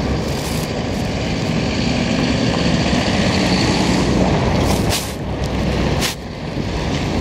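Traffic going by on a snowy city street: vehicle engines running past over a steady hiss of tyres on the wet road, with a heavier engine hum building about two to four seconds in.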